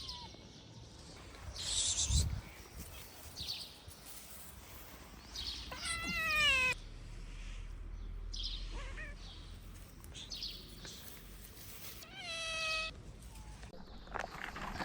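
Stray cats meowing: two drawn-out meows, the first about six seconds in falling in pitch, the second shorter near twelve seconds, with scattered rustling noises between them, the loudest about two seconds in. The meows come from hungry cats waiting to be fed.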